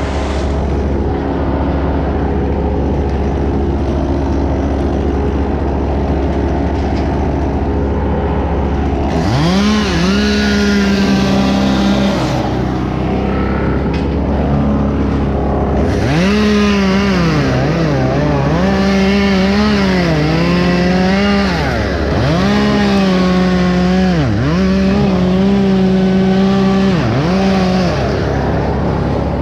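Two-stroke chainsaw run at full throttle in bursts, its pitch sagging and recovering again and again as it cuts into wood. It comes in about a third of the way through, pauses briefly, then resumes. A steady engine drone runs underneath throughout.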